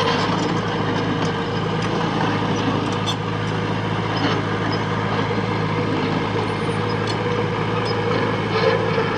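Heavy diesel engine of a working machine running steadily at a constant speed, with a few faint clicks over it.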